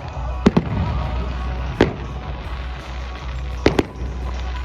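Fireworks going off in a display: about five sharp bangs, two pairs in quick succession and one single, over music with a steady bass.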